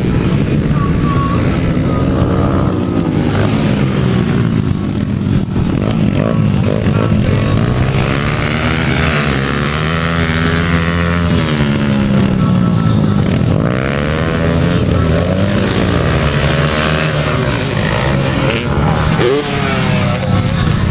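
Several motocross motorcycles racing, their engines revving up and down and overlapping one another.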